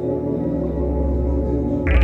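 Dark ambient drone music from a modular synthesizer: layered sustained tones over a deep bass that swells up about half a second in. Near the end a bright, grainy wash comes in sharply.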